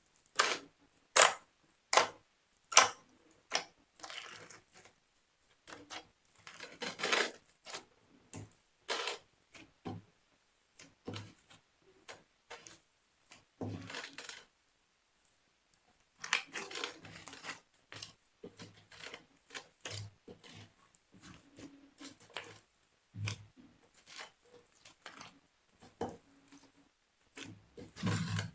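Slime being squeezed, stretched and poked by hand, making sharp clicking pops from trapped air. A few loud pops come close together near the start, and there are stretches of dense crackling between scattered clicks.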